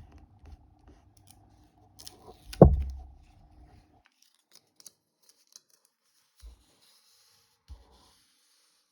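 Paper handling while a sticker is peeled and pressed into a sticker album: light rustles, small clicks and scrapes, with one loud thump about two and a half seconds in and a couple of soft taps later.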